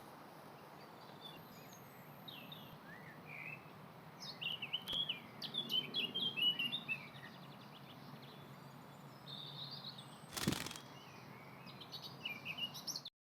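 Birds chirping and tweeting over a steady outdoor background hiss, with a flurry of quick chirps between about four and seven seconds in. A single short, loud noise burst comes about ten and a half seconds in, and the sound cuts off abruptly just before the end.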